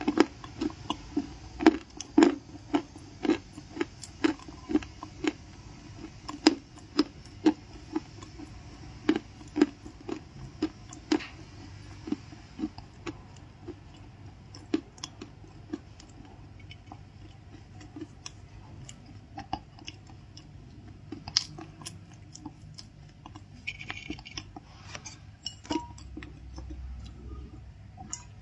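Close-miked chewing of crunchy stuffed cookies, in steady strokes about two a second that thin out and soften about halfway through.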